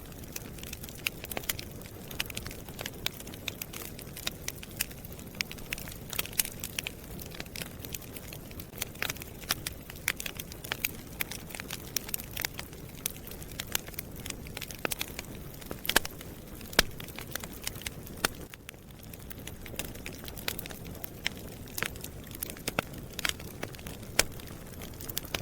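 Wood fire burning in a fireplace: a steady low rumble of flames under constant small crackles and sharp pops, a couple of louder pops a little past the middle.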